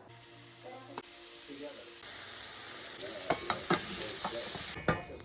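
Food sizzling in a hot frying pan, the hiss building over the first couple of seconds, with a utensil clicking against the pan several times in the second half.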